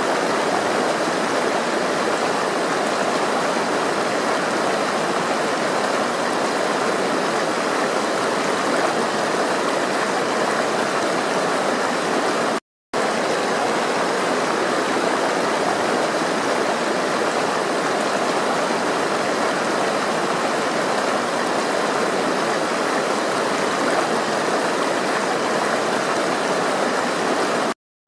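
Flowing water rushing steadily, an even hiss-like rush. The sound cuts out completely for a split second twice, about 13 seconds in and again near the end, where the recording loops.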